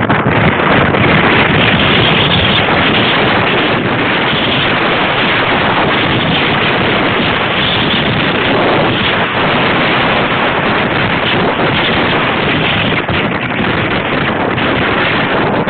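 Wind buffeting the microphone of a wearable camera on a moving bicycle: a loud, steady rush.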